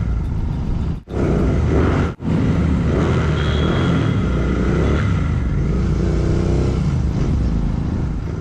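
Several motorcycle engines running together, loud and steady with some revving, briefly cut off twice about one and two seconds in.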